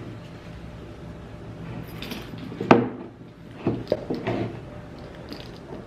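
Handling noises: a sharp click a little under three seconds in, then a few softer clicks and rustles, over a faint steady hum.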